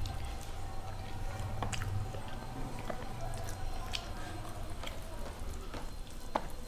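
Two people eating soft boiled rice with their hands: wet, squishy chewing and fingers mixing the rice, with scattered short clicks and smacks.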